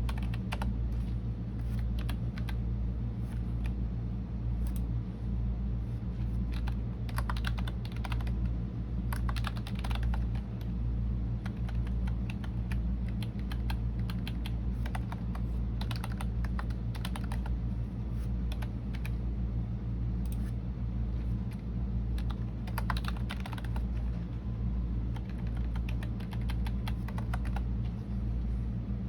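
Typing on a computer keyboard: quick runs of key clicks in bursts of a second or two, with short pauses between, over a steady low hum.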